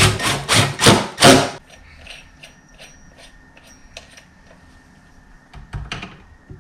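Power drill with a hole saw cutting into a wooden door, running in quick pulses, then stopping about a second and a half in. Light clicks and taps of tool handling follow, with a couple of louder knocks near the end.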